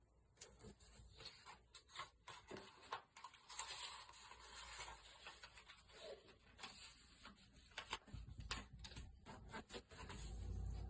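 A sheet of paper being folded and creased for an origami boat: faint, irregular crackling and rustling with many small clicks. A low rumble comes in about eight seconds in.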